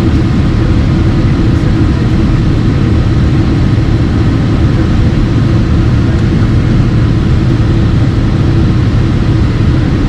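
Steady, loud cabin noise of a Boeing 767-300 powered by General Electric CF6 engines: a deep, even engine and airflow rumble with hiss above it and a few faint steady tones.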